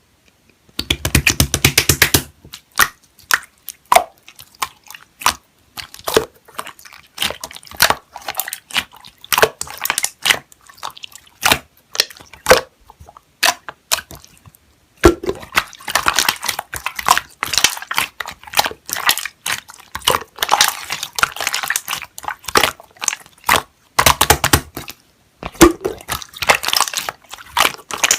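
Slime being squished and pressed by hand: a rapid, irregular run of wet clicks, pops and crackles, with a few short pauses.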